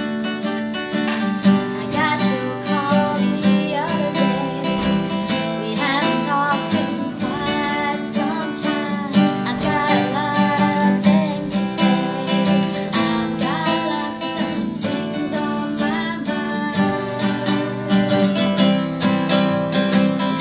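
Acoustic guitar strumming in a steady pattern, the opening of a song played live.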